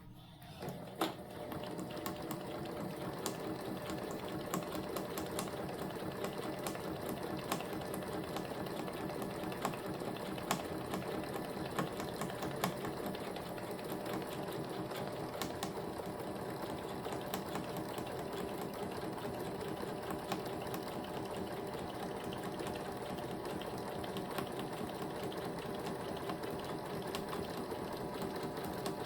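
Kenmore SensorSew 70 electric sewing machine stitching a programmed buttonhole with its J buttonhole foot. It starts up about a second in and runs steadily, a motor hum with quick needle clicks.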